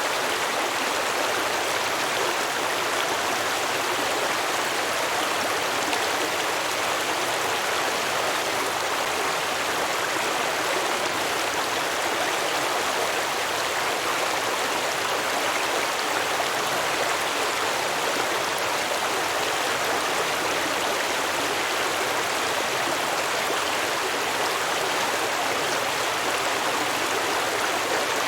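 A stream of water flowing and babbling over rocks in a steady, even rush.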